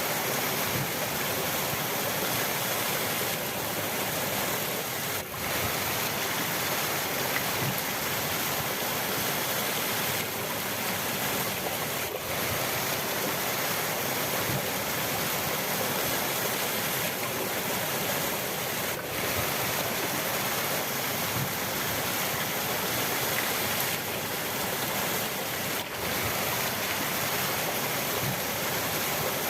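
River water rushing steadily, an even full hiss with brief slight dips about every seven seconds.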